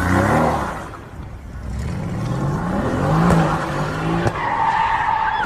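Car engine accelerating, its pitch rising twice, with two sharp knocks in the middle and a steady high tone starting near the end.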